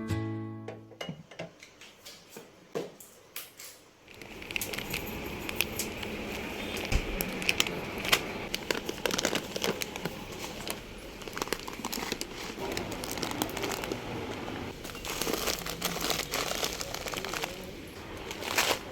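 Crinkling of plastic bags or packaging, with many irregular clicks and light knocks as things are handled, over a steady background hiss. It begins about four seconds in, after a short quiet stretch.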